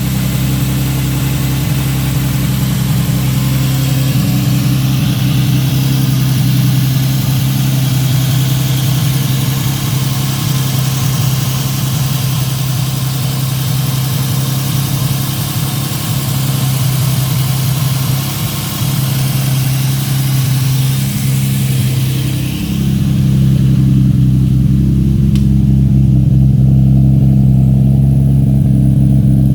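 Toyota 2JZ-GTE twin-turbo inline-six, swapped into a Nissan S14, running at a steady idle. A hiss over the engine stops about three quarters of the way through, leaving the engine note slightly louder.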